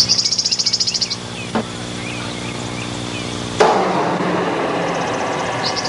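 Outdoor ambience over a steady low hum: a fast-pulsing high buzz, like insects, during the first second and again near the end, and short chirps in between. About three and a half seconds in, a louder, rougher noise starts suddenly and carries on.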